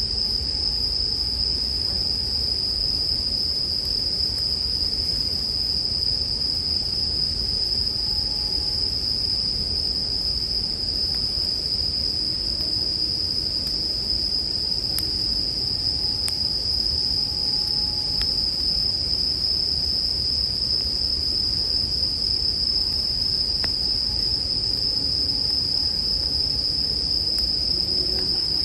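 A chorus of bell crickets (suzumushi) singing in one continuous high-pitched ringing, over a low steady rumble with a few faint campfire crackles.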